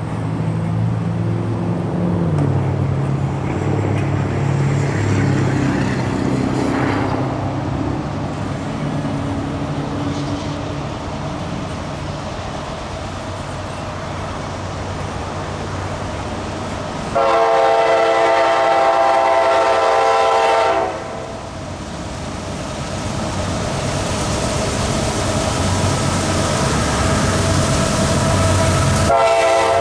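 GE AC44CW diesel locomotives running as the train approaches. Then the lead unit's hybrid K5LA five-chime air horn sounds one long blast of about three and a half seconds. A second blast starts just at the end.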